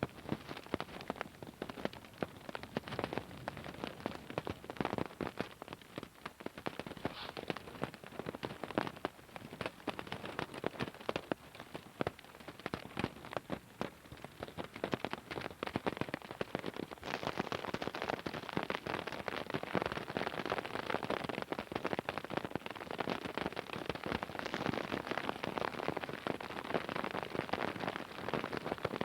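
Heavy rain falling, with dense drop impacts striking close to the microphone; the downpour grows heavier about seventeen seconds in.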